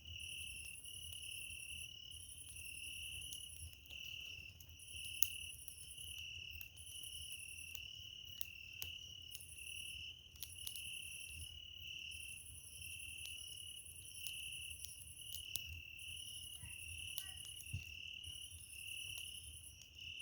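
Crickets chirping steadily, with a higher trill that comes and goes in stretches of about a second. Campfire wood crackles underneath in scattered sharp pops, the loudest about five seconds in.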